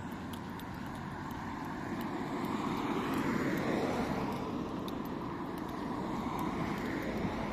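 Street traffic: a motor vehicle passing, its engine and tyre noise swelling a couple of seconds in and then easing off.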